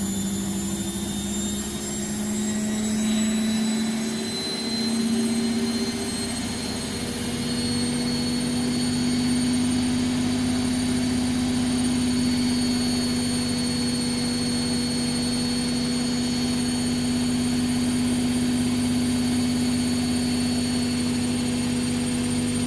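Vestel CM8710 washing machine in its final spin, set to 1000 rpm: the motor and drum whine climbs in pitch over the first few seconds as the drum speeds up, then holds steady at spin speed.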